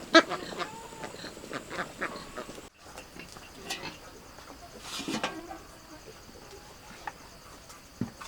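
Farm animals calling: a loud sharp call just after the start, scattered shorter calls, and another strong call about five seconds in. The sound drops out briefly nearly three seconds in.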